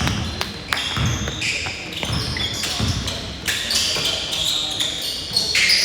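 Basketball thudding on a hardwood gym floor as it is dribbled, with short high sneaker squeaks and voices shouting across the court.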